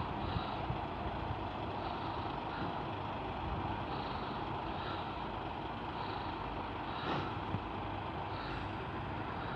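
Steady motor vehicle engine and road noise, an even hum with no clear change.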